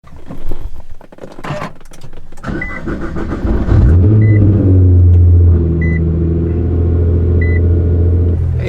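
Car engine cold-started: clicks and keys, a short warning chime repeating about every second and a half, a brief crank, then the engine catches about four seconds in. It runs at a loud fast idle for a moment, then settles to a steadier, lower cold idle.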